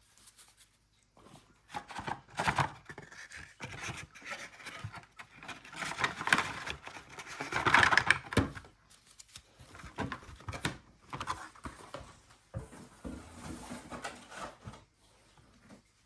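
Trading card packs and cards being handled: irregular rustling, tearing and scraping of wrappers and card stock as packs are opened and cards are shuffled through, loudest about halfway through.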